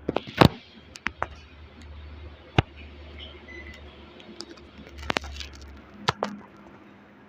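Panasonic split air conditioner running with a low hum that stops about six seconds in, under a scatter of sharp clicks and knocks, the loudest near the start.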